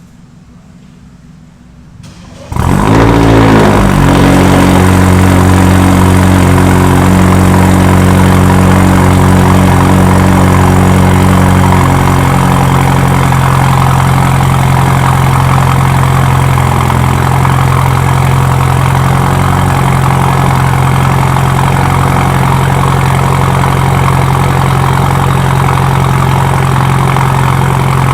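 BMW 316i engine starting about two and a half seconds in through its new full stainless-steel exhaust and custom stainless downpipe: the revs flare up briefly, then it settles into a loud, steady idle that eases a little lower about twelve seconds in.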